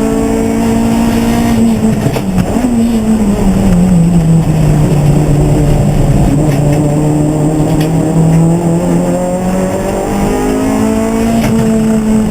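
Race car engine running hard: its pitch drops about two seconds in, settles lower through the middle, and climbs again near the end as the revs come back up.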